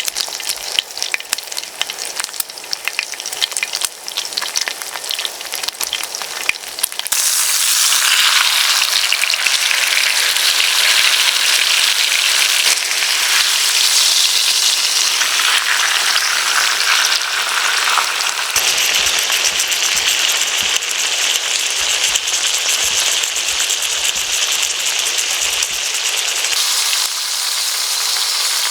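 Pork belly sizzling and spitting as it fries in a hot pan. The sizzle grows louder and fuller about seven seconds in.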